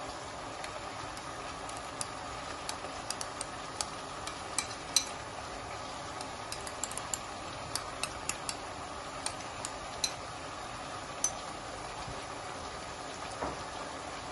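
Chicken frying in oil in a pot, a steady sizzle, with a spoon scraping and tapping against a bowl in a scatter of sharp clicks as onion and yogurt paste is scraped into the pot.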